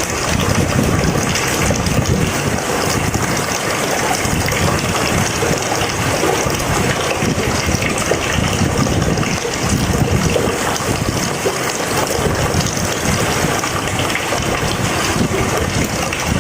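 Heavy rain falling steadily, a dense even rush of water with no breaks.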